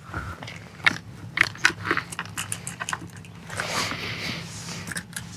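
Close handling noises as a redfish is laid out and measured on a kayak: a string of irregular clicks, taps and knocks, with a rustling stretch a little over halfway through.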